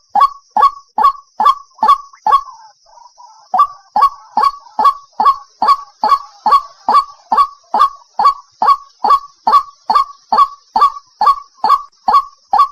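White-breasted waterhen (ruak-ruak) calling as a lure recording: a fast, even series of short harsh honking notes, about three a second, with a brief break about two and a half seconds in, over a steady high hiss.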